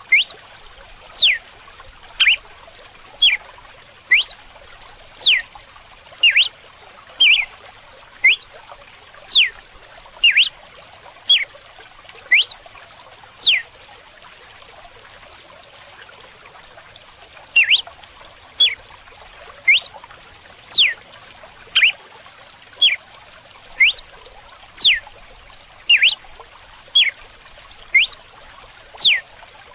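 Red-cowled cardinal (galo-de-campina) singing its 'açoite' (whip) song: short, sharp whistled notes sweeping downward, about one a second, with a pause of a few seconds midway. Running water trickles steadily underneath.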